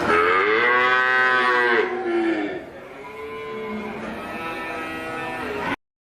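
Cow mooing twice: a loud long moo that rises and then falls in pitch, then a quieter, longer moo that cuts off suddenly near the end.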